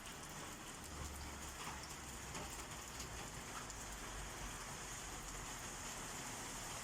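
Rain falling steadily, with individual drops ticking on nearby surfaces, and a faint low rumble underneath about a second in and again later.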